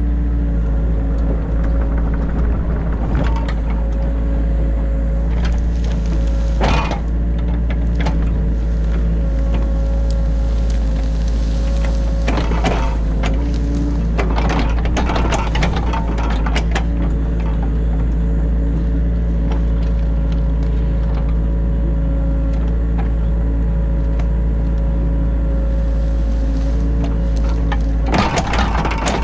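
A New Holland E50.2 mini excavator's diesel engine running steadily, heard from inside the cab, with a few short clunks and clatters as the machine works.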